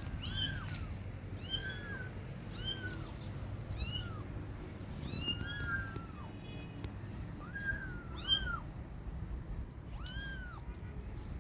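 Kittens mewing repeatedly: short, high-pitched cries that rise and fall, about one a second, calling for their mother.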